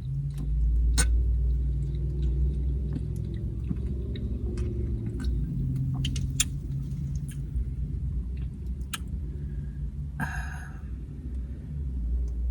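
Eating carne asada chips: scattered crisp crunches and chewing clicks over a steady low rumble. A short pitched sound comes about ten seconds in.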